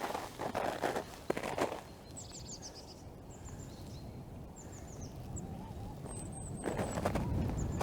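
Footsteps, then a run of high, thin bird chirps, each sliding down in pitch, repeated in small groups. Footsteps start again near the end.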